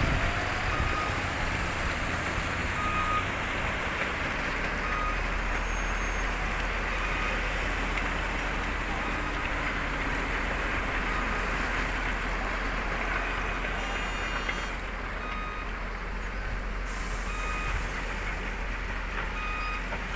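Truck reversing alarm giving a short beep every two to three seconds over the steady low rumble of diesel truck engines working nearby.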